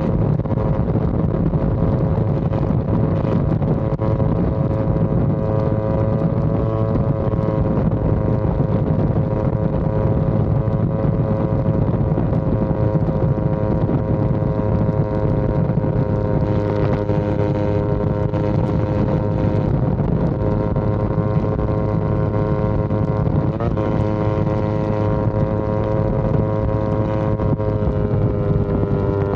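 Yamaha R25's 250 cc parallel-twin engine and exhaust running at a steady, held speed while riding, its pitch almost constant, with heavy wind noise on the microphone.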